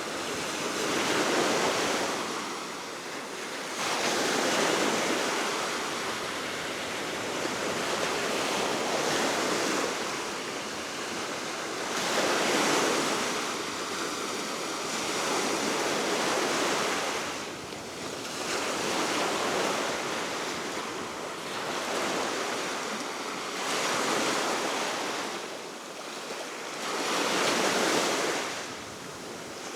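Baltic Sea waves washing in on the shore below the cliff, a rushing surf that swells and fades every few seconds, under a steady wind.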